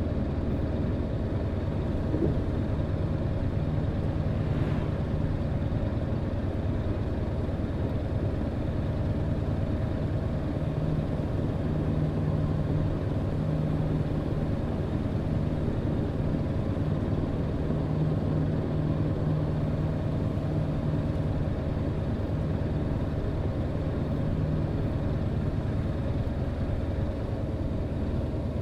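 Truck engine and road noise, a steady low drone with a constant hum, while the truck drives along at an even pace.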